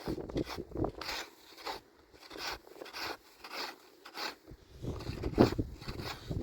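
Rustling and scraping in irregular strokes, with a sharper, louder one about five and a half seconds in.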